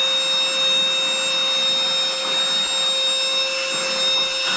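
A Reesino 14.8-volt cordless handheld wet/dry vacuum running steadily, a constant high whine over the rush of suction, as it picks up loose debris.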